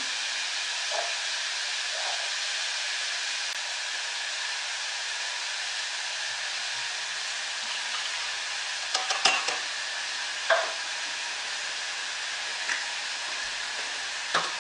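Lardons sizzling as they fry in a pan: a steady hiss, with a few light knocks about nine and ten seconds in and again near the end.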